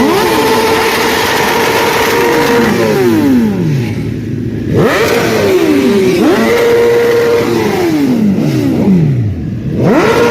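Superbike engine revved hard three times, each time climbing quickly, holding high for a second or two, then dropping back.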